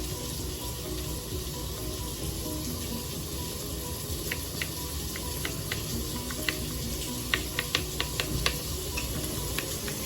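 Bacon frying in a pot: a steady sizzle with scattered sharp crackles and pops, which come more often in the second half.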